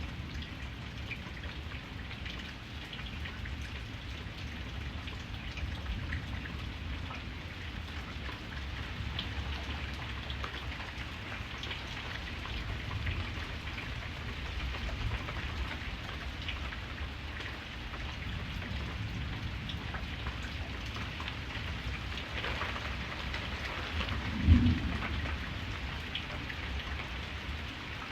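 Steady rain falling, with scattered drop ticks over a continuous low rumble. About three-quarters of the way through, a single brief, loud low thump.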